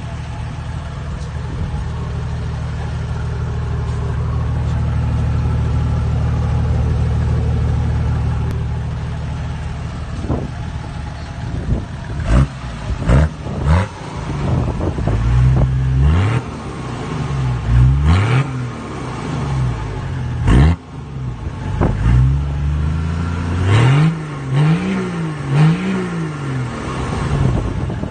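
Turbo-diesel Toyota Land Cruiser 105 Series running through a turbo-back performance exhaust. It idles steadily at first, then from about ten seconds in is revved in a series of quick free-revs, ending with a rapid run of short blips near the end.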